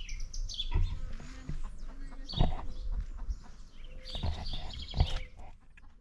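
Small birds chirping in short, high, repeated notes, with a quick run of chirps about four seconds in. Several dull low thumps sound over them, the loudest about two and a half and five seconds in.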